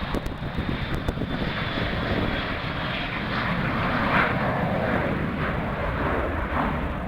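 Airliner engines running as an aircraft moves past at the airport: a steady rumbling roar that swells to its loudest about four seconds in, then eases slightly.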